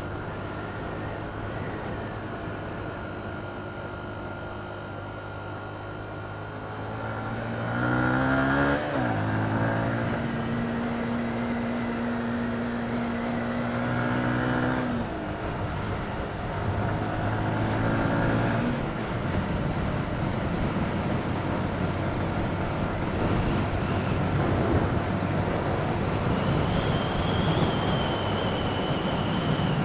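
Motorcycle engine pulling up through the gears, rising in pitch, holding, then dropping at each shift, with a rush of wind noise building up as speed grows.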